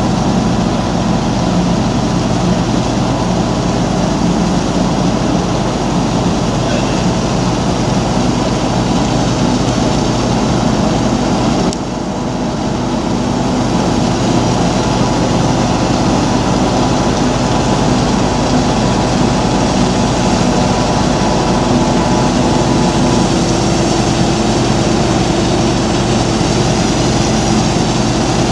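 A heavy engine running steadily: a loud, even drone with a steady low hum. The sound dips briefly about twelve seconds in, then carries on unchanged.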